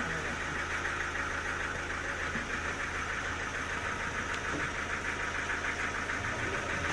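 An engine running steadily, with a fast, even pulsing and a low hum.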